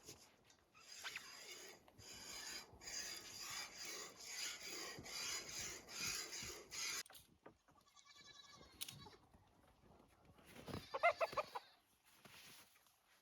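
Oberhasli dairy goat bleating, once briefly and then loudly near the end, after several seconds of rhythmic rasping, rubbing noise.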